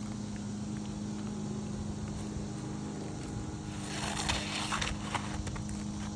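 Asphalt roof shingles scraping and crackling in a burst of about a second, with a few sharp clicks, over a steady low hum.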